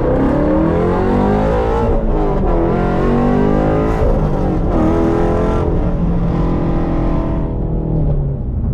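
Shelby GT350's 5.2-litre flat-plane-crank V8, tuned for headers and a cold-air intake, pulling hard under full acceleration. The revs climb, drop at gear changes about two and four seconds in, climb again, then hold steady before easing off near the end. Wind noise comes through the open windows.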